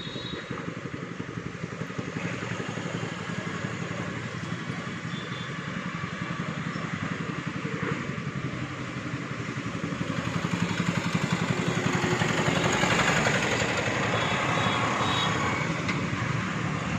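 Road traffic, a steady rumble of passing vehicles, swelling to its loudest about twelve to thirteen seconds in as one passes close by.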